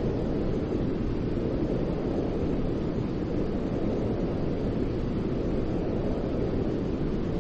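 Continuous white noise: a steady, deep rushing hiss, even and unbroken, with most of its weight low down.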